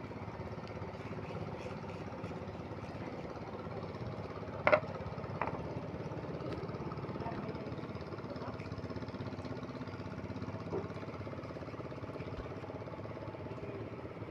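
Suzuki Multicab's small three-cylinder engine idling steadily. A sharp knock about a third of the way in, and a lighter one just after.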